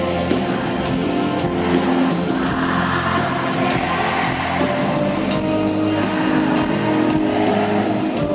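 Live band music from a concert performance of a pop ballad: drums keep a steady beat under sustained chords and bass.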